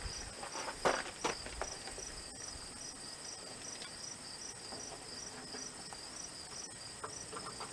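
Crickets chirping steadily in a regular pulsing trill, with a couple of short knocks about a second in.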